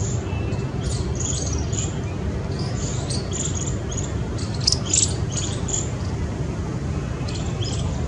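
Birds chirping in short, high, scattered calls, with a busier cluster about four to five seconds in, over a steady low background rumble.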